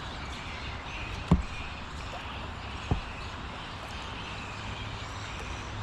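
A flying-fox colony chattering and squabbling over a steady low rumble of freeway traffic. Two knocks, about a second and three seconds in, the first louder.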